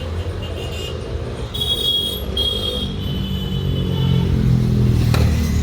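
A motor vehicle engine running, its pitch rising as it revs up in the second half, with a sharp knock near the end.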